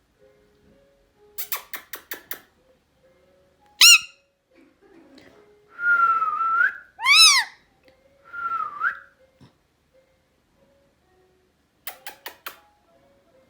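Indian ringneck parrot whistling: a short, loud rising whistle about four seconds in, then three whistled calls over the next few seconds, the middle one loudest and arching up and down in pitch. Quick runs of sharp clicks come early on and again near the end.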